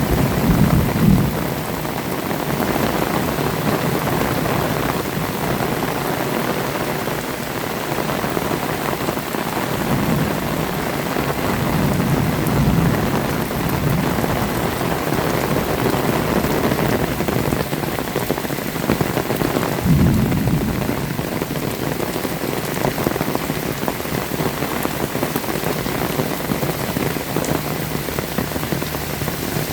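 Heavy rain falling steadily and hard, pattering on surfaces. A few brief low rumbling swells rise through it: one near the start, a couple about ten to thirteen seconds in, and one about twenty seconds in.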